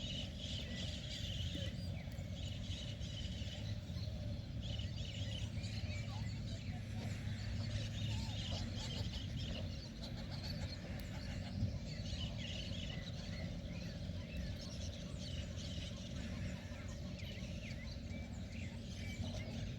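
Birds calling and chirping on and off over a steady low rumble.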